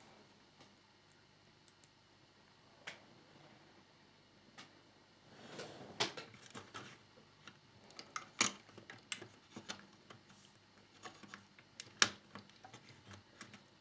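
Scattered light clicks and taps with a short rustle: hands handling the plastic fairing parts and small screws of a scale motorcycle model while fitting them.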